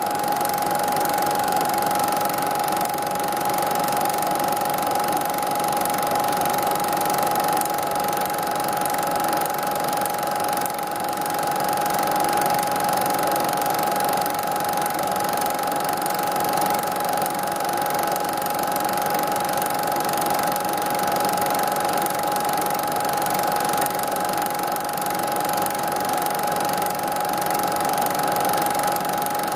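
Steady mechanical whirring with a constant high whine and hiss throughout.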